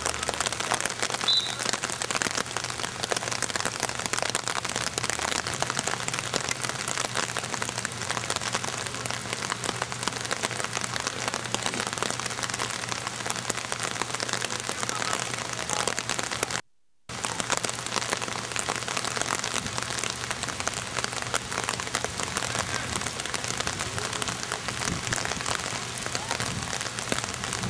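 Steady rain falling, a dense crackling patter of drops. The sound cuts out completely for a moment about seventeen seconds in.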